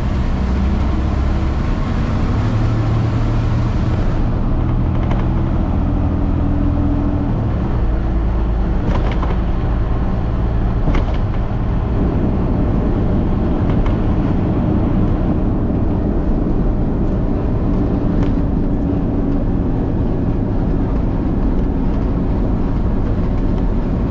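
Peterbilt truck's diesel engine running under way, a steady low drone whose pitch shifts a few times as engine speed changes. A few brief clicks are heard over it.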